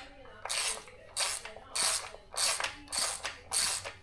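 Hand ratchet wrench being worked in short strokes, six bursts of clicking at a steady pace of just under two a second, as when undoing a bolt.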